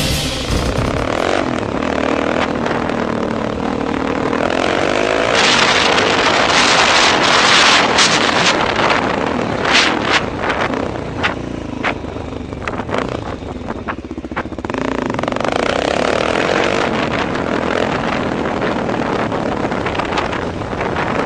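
A motor vehicle running on the road: engine note and road and wind noise, with a series of sharp knocks through the middle stretch.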